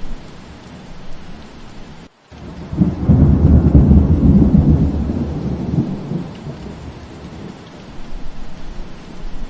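Steady rain with a roll of thunder that rumbles up about three seconds in and dies away over the next few seconds. Just before the thunder, the sound cuts out briefly.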